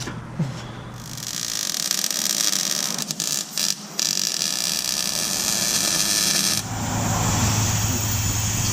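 Welder hissing as the blown-off exhaust X-pipe sleeve is tack welded back on, with a few brief breaks about three seconds in; the hiss cuts off suddenly about two-thirds of the way through, leaving a low hum.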